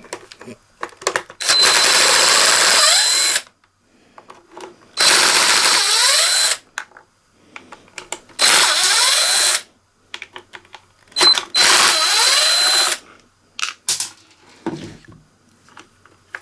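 Power screwdriver running in four bursts of one to two seconds each with a steady high motor whine, backing out the screws that hold a panel on the leaf blower, with light clicks of handling in between.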